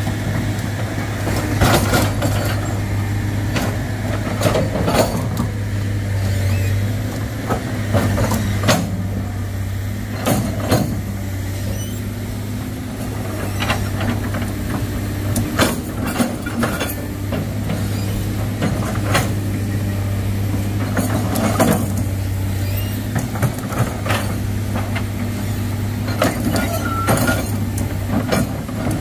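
Heavy diesel engine running steadily, with frequent irregular knocks and clanks.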